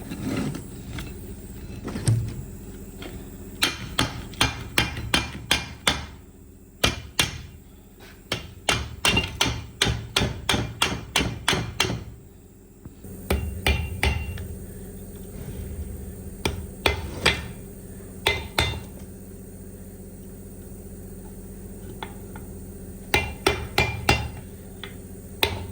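Hammer striking metal parts of a truck steering column during its overhaul, in several runs of quick blows about two to three a second, with short pauses between the runs.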